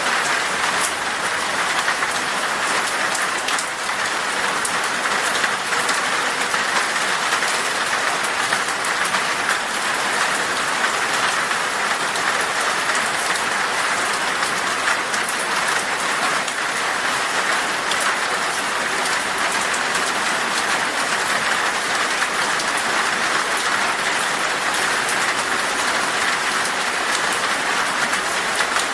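Heavy rain falling on glass: a steady, even hiss with many fine drop ticks.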